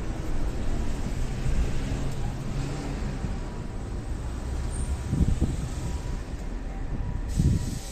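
Low, steady rumble of a train at a station, with two short low thumps about five and seven and a half seconds in.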